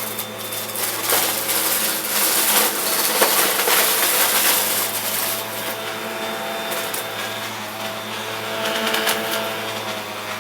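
Vacuum cleaner running steadily while sucking up confetti, with many quick crackles and rattles of the pieces going up the nozzle over the motor's even hum.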